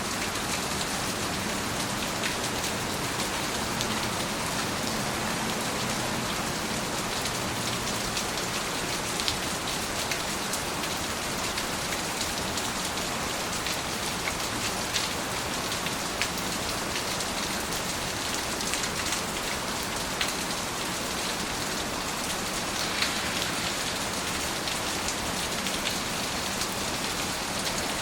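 Steady rain falling, a dense even hiss with scattered individual drops and drips tapping.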